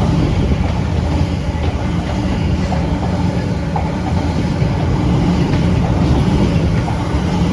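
Trains passing close by: a container freight train's wagons rolling past, with a class 345 Elizabeth Line electric unit passing at the same time. A steady, heavy rumble.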